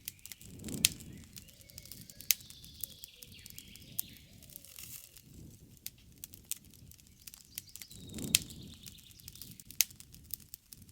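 Wood campfire crackling, with irregular sharp pops from the burning wood, and birds chirping faintly in the background.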